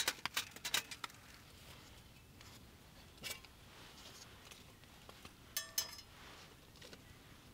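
Light metallic clicks and clinks from a metal camp wood stove (firebox) being handled: a quick cluster in the first second, a single tap about three seconds in, and two short ringing clinks near six seconds.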